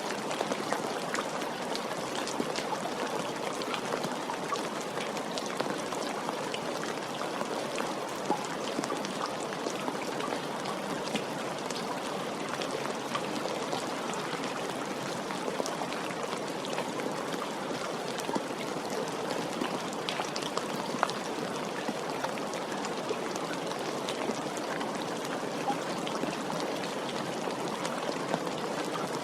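Steady rain falling, a continuous patter of drops with fine individual drop clicks scattered through it.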